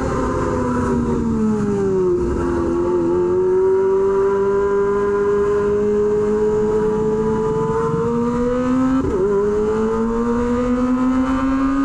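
Kawasaki Ninja ZX-25R's inline-four engine through an SC Project exhaust, running at fairly steady revs while riding slowly. The pitch eases down over the first couple of seconds, then creeps up, with a brief dip and recovery about nine seconds in, like a gear change or throttle blip.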